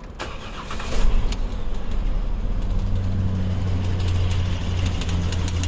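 2011 Jeep Wrangler's 3.8-litre V6 starts about a second in and runs steadily, with sharp ticks from a spark plug wire that has come off its plug and is arcing across to a bolt.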